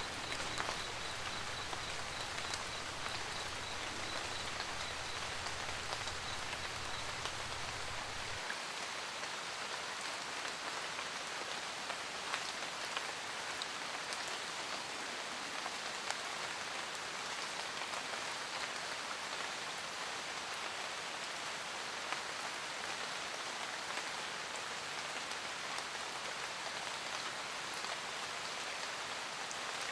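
Steady rain falling, with individual drops ticking through it. A low rumble underneath cuts off abruptly about eight seconds in.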